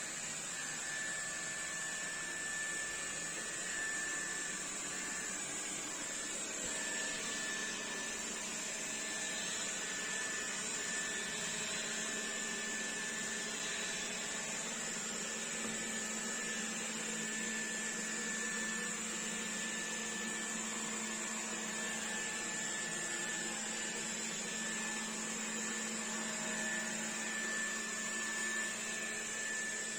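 Xiaomi Dreame D9 Max robot vacuum running steadily: an even suction-fan hiss with a constant high whine and a low hum.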